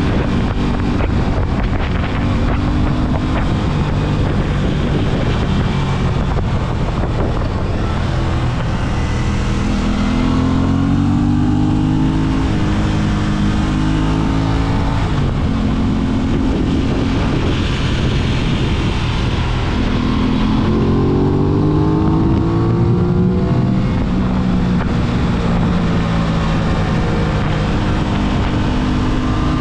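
Aprilia RS 660's parallel-twin engine under way, pulling hard with its pitch climbing twice, around ten and twenty seconds in, and easing off between, with wind rushing over the microphone.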